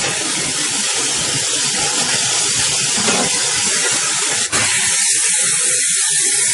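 Steady loud hissing noise, with a brief break about four and a half seconds in.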